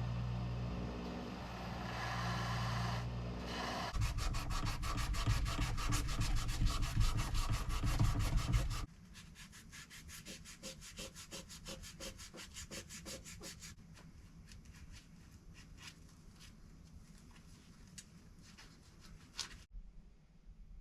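A steady machine hum for about four seconds, then rapid back-and-forth rubbing strokes on the Damascus fillet knife as it is finished by hand. The strokes are loud at first and turn quieter from about nine seconds in.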